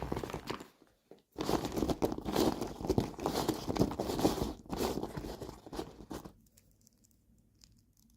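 Packaging being torn and crinkled open by hand, a crackly rustle that pauses briefly about a second in, resumes, and stops about six seconds in, leaving a few faint clicks.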